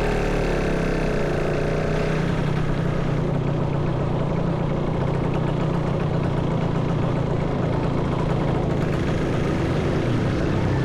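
Motorcycle engine running during a ride, its pitch dropping as it slows over the first couple of seconds, holding steady, then rising again near the end as it speeds up.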